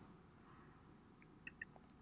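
Near silence: room tone, with a few faint short clicks near the end.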